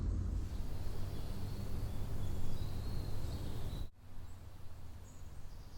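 Outdoor ambience: a steady low rumble with small birds chirping high above it. Just before four seconds in, the sound cuts off abruptly, then comes back quieter, with the rumble and a few faint bird calls.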